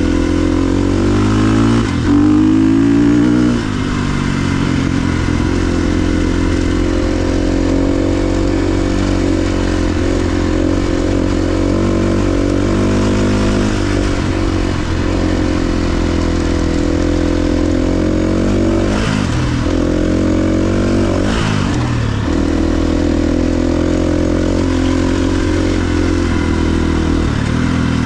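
KTM 350 XC-F dirt bike's single-cylinder four-stroke engine under way, its pitch rising and falling with the throttle: a loud rev about two seconds in, and a couple of quick drops and pick-ups about two-thirds of the way through.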